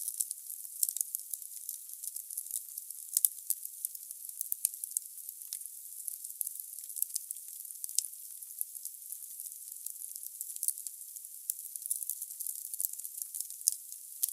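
Wood fire burning in a fireplace: the logs crackle and pop at irregular intervals over a steady hiss of the flames, with one louder pop about three seconds in.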